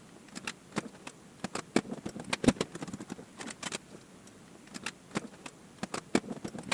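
Irregular clicks and knocks of tools, fasteners and plastic being handled while a wheel arch liner's 8mm bolts and 10mm plastic nuts are undone, with a few louder knocks about two and a half seconds in.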